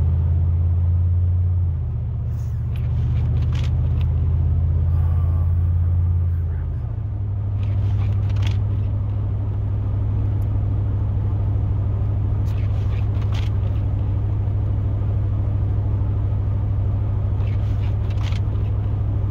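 A plow truck's engine drones steadily inside the cab while driving. Its pitch shifts about two seconds in and again about seven seconds in. Short swishing sounds recur every few seconds.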